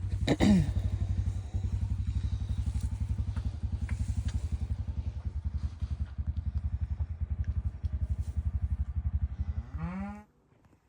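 An engine idling with a steady, rapid low pulsing, shut off about ten seconds in. A cow moos once, falling in pitch, about half a second in.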